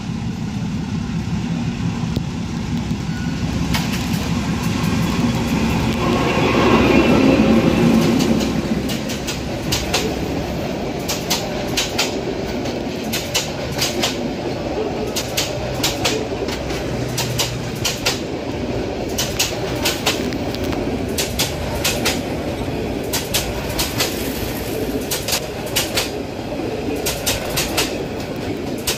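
MLW meter-gauge diesel locomotive running as it approaches and passes, loudest about seven seconds in. Passenger coaches then roll by with a steady clickety-clack of wheels over rail joints.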